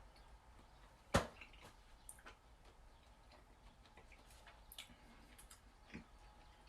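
Close-miked eating sounds of a person chewing food: one sharp click about a second in, then a few fainter scattered clicks and smacks.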